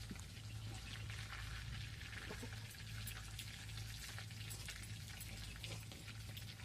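Food sizzling and crackling in hot oil in a cooking pan, a steady hiss dotted with tiny pops, over a low steady hum.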